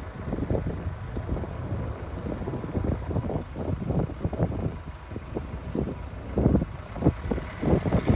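Wind buffeting the microphone in irregular gusts, a low rumble that swells and fades, with a faint steady hum beneath.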